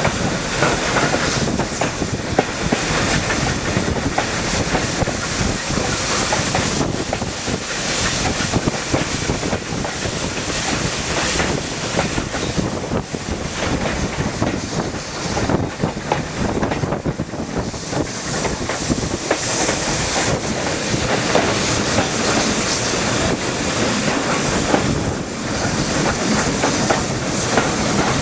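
Heritage railway train in motion, its wheels clattering steadily over the rail joints, with a thin high squeal lasting a few seconds about two-thirds of the way through.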